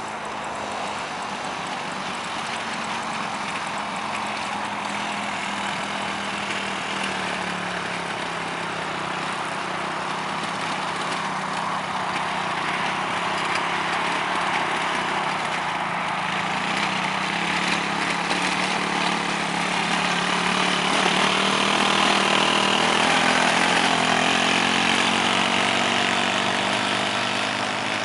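Quad bike engine running steadily, slowly getting louder to a peak a few seconds before the end, then easing slightly.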